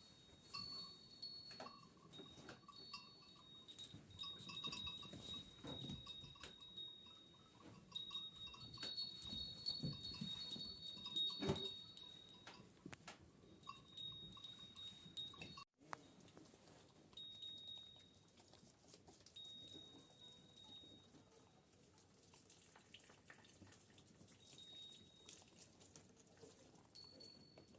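Bells on a flock of Kangal sheep clinking and ringing irregularly as the animals move. The ringing is busiest in the first half, cuts out for a moment a little past halfway, then goes on more sparsely.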